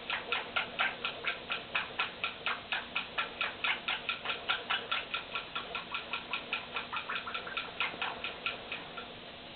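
Quaker parrot making a rapid run of short repeated calls, about four or five a second, which thins out near the end.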